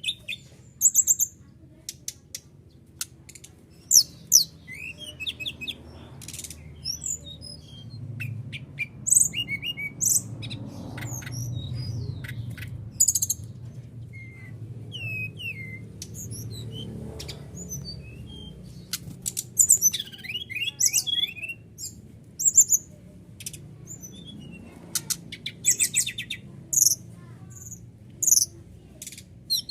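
A sikatan rimba dada coklat (SRDC, brown-chested jungle flycatcher) singing: short, sharp high chirps and quick trills in irregular bursts, over a faint low hum.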